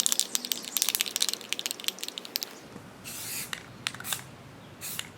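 Rust-Oleum aerosol spray paint can being shaken, its mixing ball rattling rapidly, then, about two and a half seconds in, a few short hissing bursts of spray.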